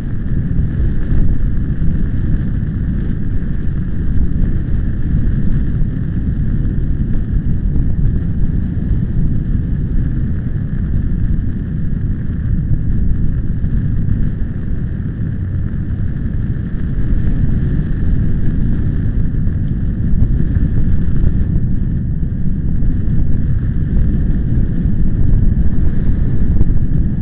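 Strong wind buffeting the microphone: a loud, continuous low rumble that swells and eases with the gusts, with a fainter steady hiss above it.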